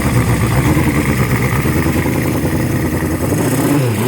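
1976 Honda CB750's air-cooled inline four-cylinder engine running steadily on choke from a cold start, not yet warm enough to idle on its own. Near the end the revs start to rise and fall.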